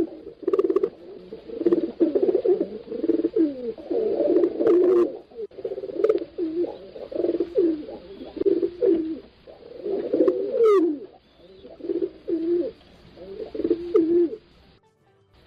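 Pigeons cooing over and over, low wavering coos that overlap at times, with a few short clicks between them.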